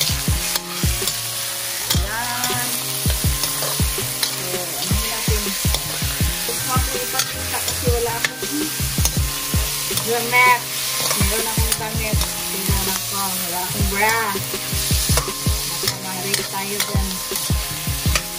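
Raw chicken pieces with garlic, onion and ginger sizzling in olive oil in a stainless-steel wok, while a metal spatula stirs and scrapes them, with frequent sharp clicks of the spatula against the pan.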